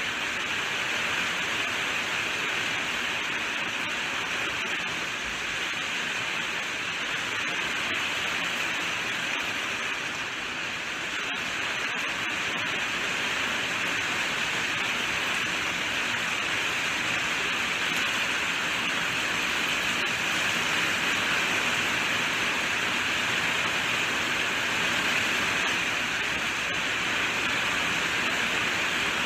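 Steady heavy rainfall, an even hiss with no distinct drops or thunder.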